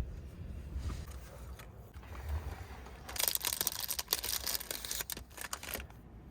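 Crinkling and rustling of something being handled, dense for about three seconds from about three seconds in, over a low rumble.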